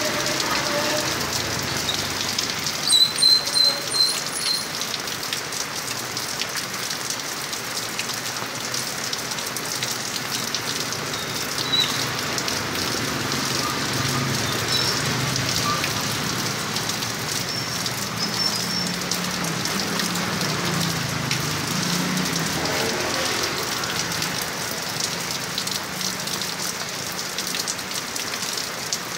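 Heavy rain falling steadily. About three seconds in, a few short high-pitched chirps sound above it.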